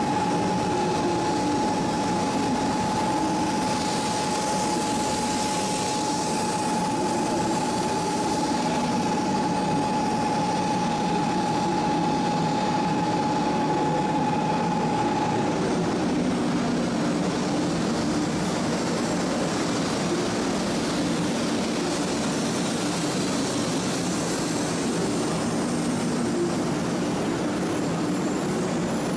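500 Series Shinkansen electric train moving along the platform, a steady rumble and hiss of the passing cars. A steady high tone runs along with it and stops about halfway through.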